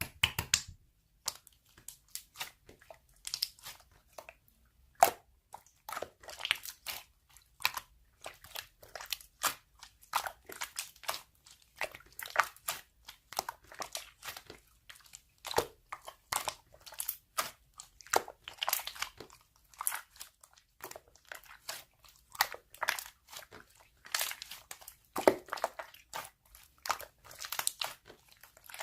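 Dense, irregular crunching and crinkling clicks, close to the microphone.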